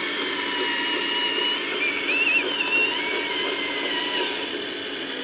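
Small electric motors and gearboxes of radio-controlled construction models whining: several high tones wavering up and down in pitch over a steady lower hum.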